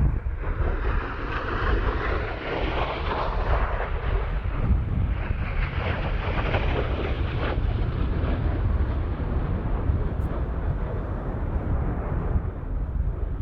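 Jet roar of USAF Thunderbirds F-16 fighters flying by, swelling twice, with a steady deep rumble of wind on the microphone.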